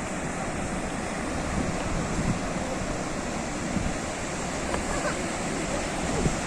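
Sea waves washing onto the shore: a steady surf with small swells.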